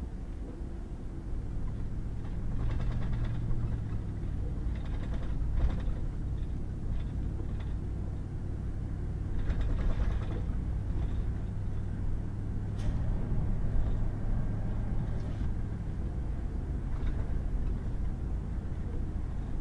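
A 4x4 pickup truck driving on a wet, muddy gravel road: a steady low engine drone with road noise, and a few scattered brief knocks and clatters.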